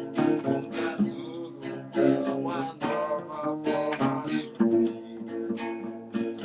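Acoustic guitar (violão) strumming chords in a samba rhythm, with an acoustic bass guitar (baixolão) playing along underneath.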